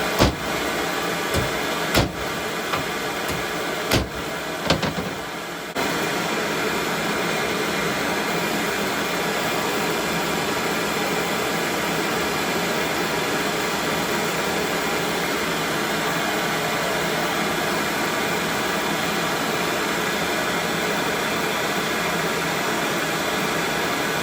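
Steady rushing hiss of a gas heating torch burning, with several sharp hammer knocks in the first five or six seconds.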